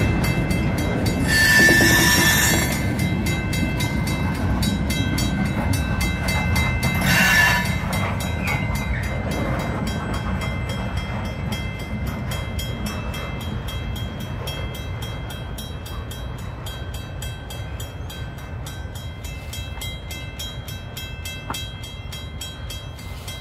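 CN freight train 402 rolling past, its wheels clicking over the rail joints in a quick steady rhythm under a thin high ringing from the wheels. There are two short louder surges, about 2 seconds and 7 seconds in, and the sound slowly fades toward the end.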